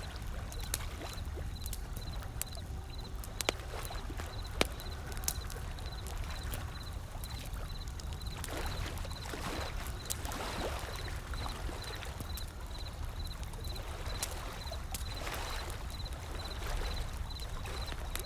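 Wood fire crackling with scattered sharp pops over ocean waves and a low steady rumble; a wave washes in about halfway through and another near the end.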